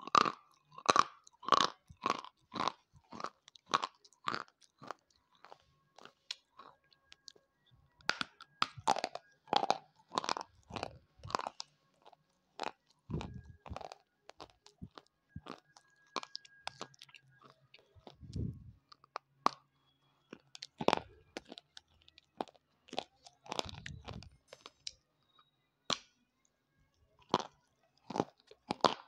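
Close-up biting and chewing of something hard and brittle: a quick run of sharp crunches, about two a second, then slower, sparser crunches and chews.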